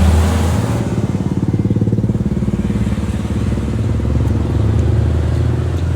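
A motor engine running steadily, with a fast, even low pulse. A rushing noise over it dies away about a second in.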